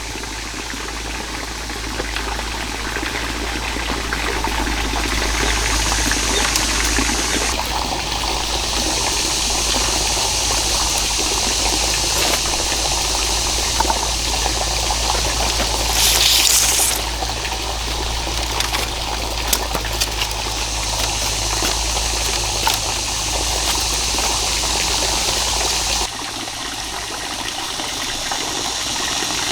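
Steady running water, with a brief louder gush or splash about sixteen seconds in; the sound changes abruptly twice.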